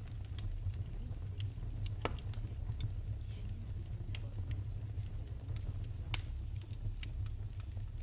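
Wood fire burning in a fireplace, crackling with scattered sharp pops over a steady low rumble of flame; the loudest pops come about two and six seconds in.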